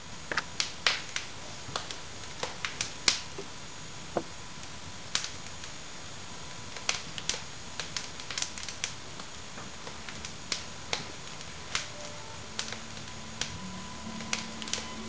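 Wood fire in a fireplace crackling: irregular sharp pops and snaps over a steady hiss.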